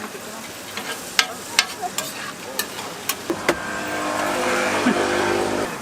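Toast griddle sizzling, with sharp clicks and taps of a metal spatula. About three seconds in, a passing motor vehicle's engine comes in with a steady drone that grows louder and fades near the end.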